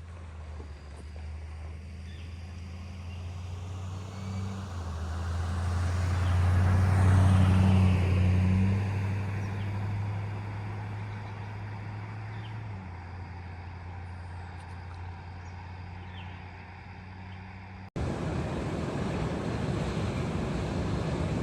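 A passing engine: a low, steady hum grows louder to a peak about seven seconds in, then fades away. Near the end it cuts abruptly to a steady rushing of surf or wind.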